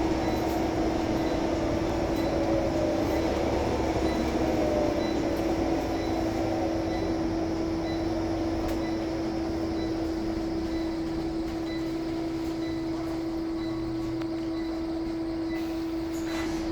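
Scania L94UB Omnicity single-decker bus on the move, heard from on board. A steady high hum holds throughout, while a fainter whine falls in pitch over the first six seconds as the bus slows.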